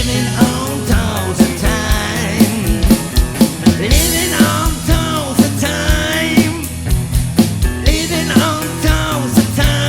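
Live rock band playing an instrumental passage, a lead line bending notes up and down over bass and a steady drum beat.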